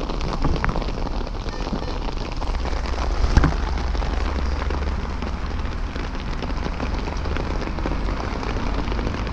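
Steady hiss of rain with a low rumble underneath, and a sharp knock about three and a half seconds in as the bag and camera on the motorcycle are handled.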